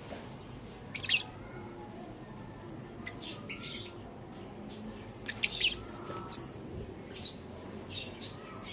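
Lutino masked lovebirds giving short, shrill chirps and squawks now and then, with the loudest calls a little past halfway.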